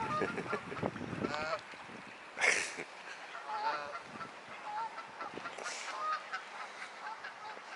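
Water birds at a feeding spot calling repeatedly, many short calls overlapping from several birds, with a brief rush of noise about two and a half seconds in.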